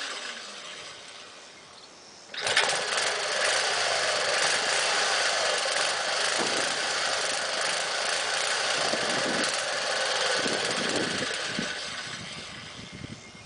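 Mini bike's small engine, cold, starts up suddenly about two and a half seconds in and runs steadily, then fades near the end.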